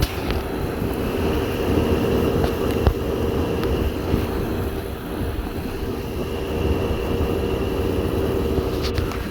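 Window air conditioner running: a steady hum with the rushing noise of its fan, with one small tick about three seconds in.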